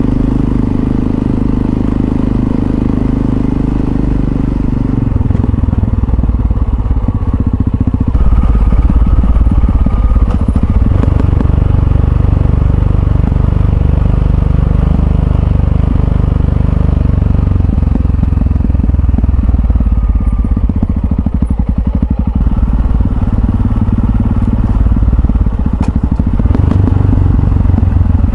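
Yamaha XT660Z Ténéré's single-cylinder engine running while being ridden. The engine note holds steady for the first few seconds, then turns lower and rougher about five seconds in and stays so.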